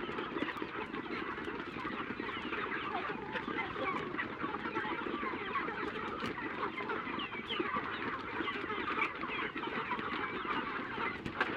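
A large flock of chickens calling all at once, a dense, unbroken chorus of overlapping clucks and cheeps at feeding time.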